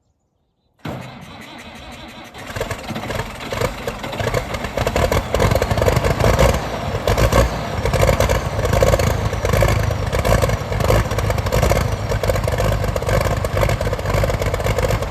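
Case 1175 tractor's diesel engine starting on a cold morning: it kicks in suddenly about a second in, runs quieter for a moment, then catches and runs louder, building in level.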